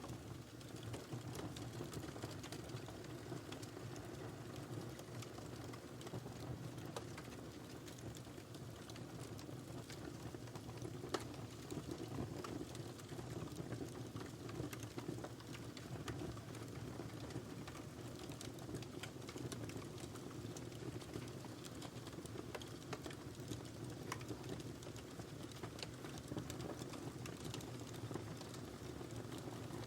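Wood fire burning in a fireplace: a steady low rush of flame with frequent small crackles and pops, and one louder pop about eleven seconds in.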